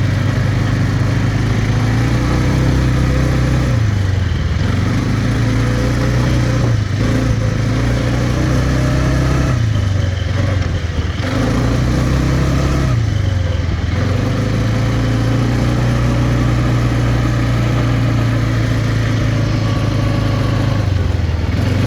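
Quad bike engine running under steady throttle, its pitch dipping briefly and picking back up several times as the throttle is eased and reopened.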